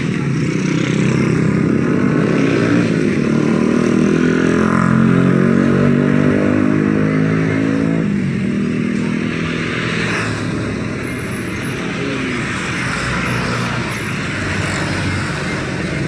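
A motor vehicle engine running close by over steady street noise. Its pitch rises and it is loudest about five seconds in, then it settles lower.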